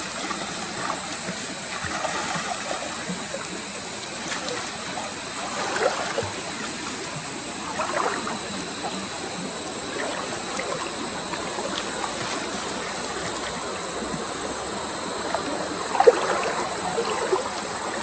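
Shallow water sloshing and splashing as fish are caught by hand, with a few louder splashes about six, eight and sixteen seconds in.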